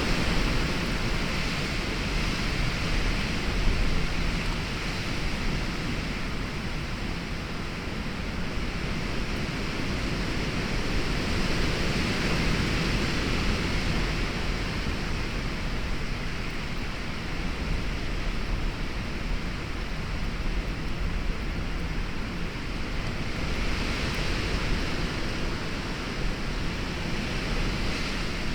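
Storm rain and gusting wind: a steady hiss of heavy rain over a low rumble of wind that swells and eases every few seconds.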